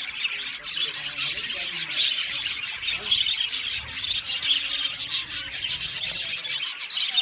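A flock of budgerigars chattering and chirping all at once in a dense, continuous warble, with many short sharp clicks mixed in.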